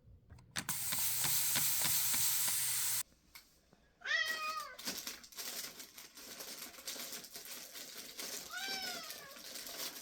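A steady hiss lasting a couple of seconds that cuts off suddenly, then a domestic cat meowing twice, a few seconds apart, each call rising and then falling in pitch.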